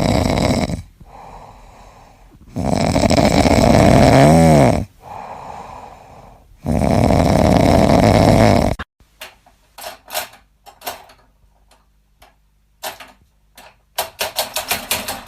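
A pet snoring loudly, with long harsh breaths alternating with quieter ones. After an abrupt cut about nine seconds in come scattered sharp clicks or taps, in a quick run near the end.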